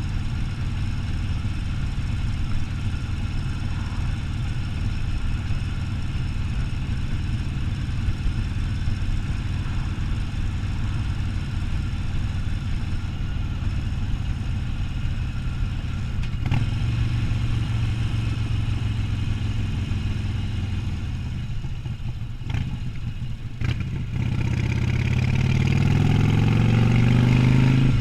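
Harley-Davidson Sportster 1200's V-twin engine running steadily under way. Its level dips briefly about three-quarters through, then its pitch climbs as the bike accelerates near the end.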